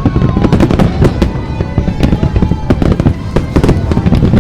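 Aerial fireworks barrage: many bangs and crackles in rapid succession over a continuous low rumble, with music playing underneath.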